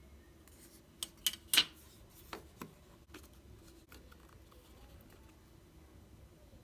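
A quick run of sharp clicks and taps about a second in, the loudest near the middle of the run, then two softer ones shortly after: small plastic parts being handled, such as the earbuds and their charging case.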